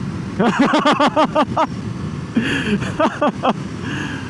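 A person laughing in a quick string of short "ha" bursts, then a few more a second later, over the steady drone of a motorcycle ride.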